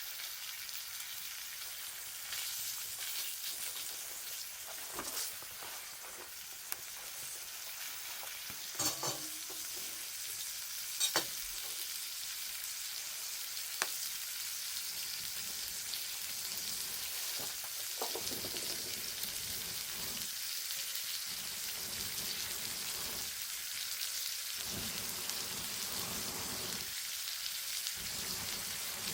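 Campfire burning: a steady crackling hiss with scattered sharp pops, a few louder ones about ten seconds in.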